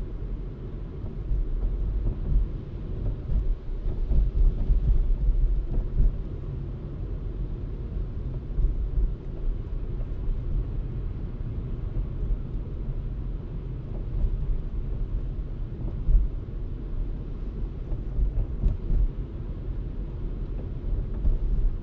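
Car driving, heard as a continuous low rumble of engine, road and wind noise that swells and eases unevenly.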